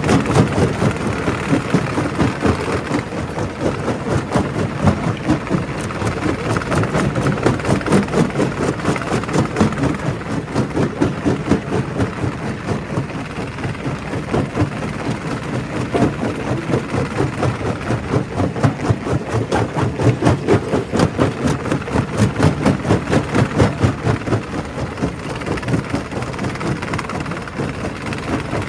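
Quarry primary rock crusher running and breaking stone: a steady heavy mechanical rumble with a rapid, uneven run of cracks and knocks as rock is crushed.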